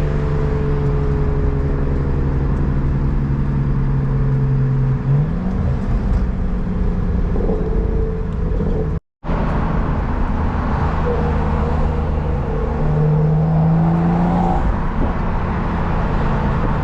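Turbocharged BMW N55 inline-six with a homemade intake, heard from inside the cabin while cruising: a steady engine drone whose pitch shifts about five seconds in and rises briefly near the end. The sound cuts out for a moment about nine seconds in.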